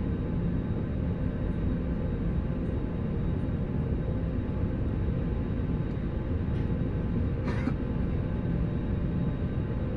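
Steady low rumble and hum of an airliner cabin with the engines running after landing, with one brief higher-pitched sound about seven and a half seconds in.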